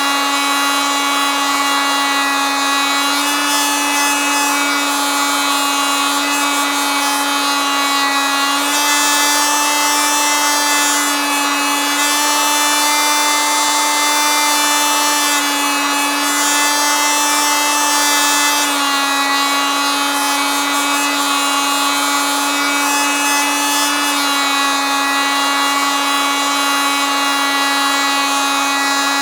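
Oscillating multitool running continuously with a steady, high buzzing drone. Its pitch steps slightly up and down every few seconds.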